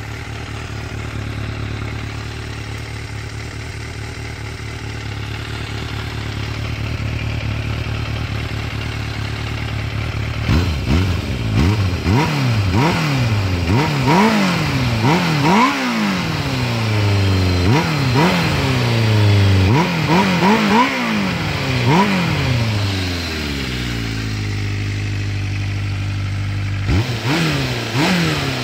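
Suzuki GSX400 Impulse inline-four with a Yoshimura Cyclone exhaust. It idles steadily for about ten seconds, then gets a long run of quick throttle blips, each revving up and dropping straight back. It settles to idle again, then a couple more blips come near the end.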